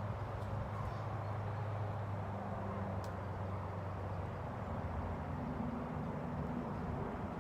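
A steady low mechanical hum under a rushing noise, its pitch shifting up slightly about two-thirds of the way through, with a single short click near the middle.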